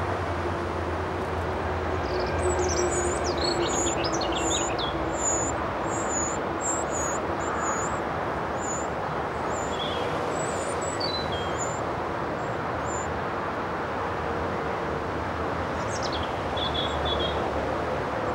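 Small birds chirping in short, high-pitched notes, including a run of repeated notes about three a second in the first half and a few more near the end, over a steady background rumble and hiss.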